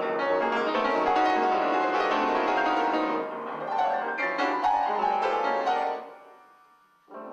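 Piano music, a busy run of notes that fades out about six seconds in.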